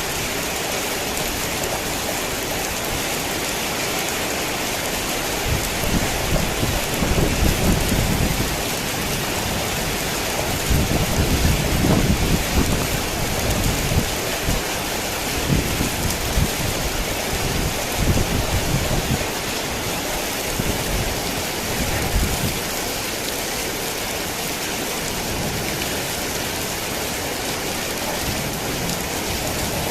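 Heavy rain falling in a steady hiss, with low rolling thunder rumbling through the middle, from about six seconds in until about twenty-two seconds, loudest twice along the way.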